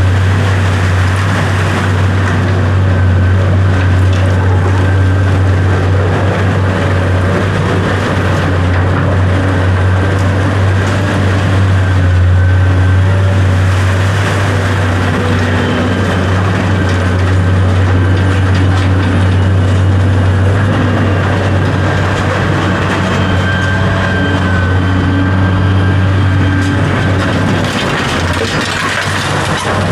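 A vehicle's engine running steadily, with a strong constant low hum and noise over it throughout.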